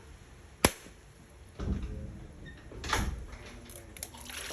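A blade striking a mature coconut to crack it open: one sharp, loud strike, then two duller, heavier knocks.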